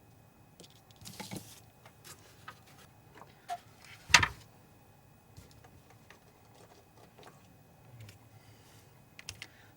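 Scattered small clicks and taps of plastic and metal parts being handled and fitted during a projector colour-wheel repair, with one sharper knock about four seconds in.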